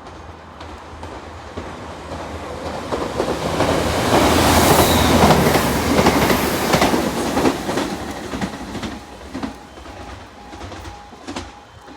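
A train passing through, growing louder, loudest in the middle, then fading away, with its wheels clicking rhythmically over the rail joints.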